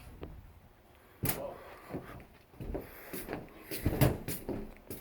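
Scattered knocks and bumps on the sheet-metal housing of a large air-handling unit, about half a dozen at irregular intervals, the loudest shortly after a second in and about four seconds in.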